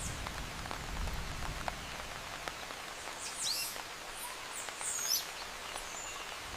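Rainforest ambience: a steady hiss of light rain with faint scattered drips, and a few short high bird chirps about three and five seconds in.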